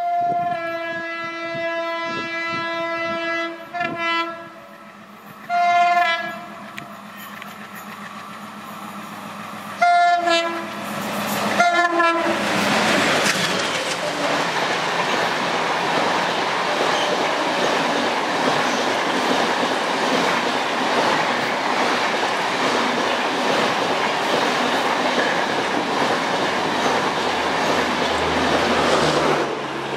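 ALCo-built WDM-3D diesel locomotive sounding its horn as it approaches at speed: one long blast of about three and a half seconds, then four short ones. About twelve seconds in the locomotive passes, and the Humsafar Express coaches rush by with a loud, steady rumble and clatter of wheels on rails for some fifteen seconds, easing off near the end.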